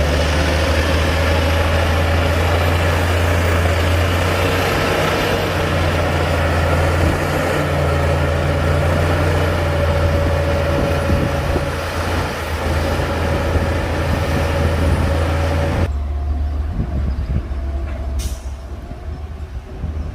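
Heavy diesel engine of earthmoving machinery running with a steady low drone. About sixteen seconds in the sound drops abruptly to a quieter rumble.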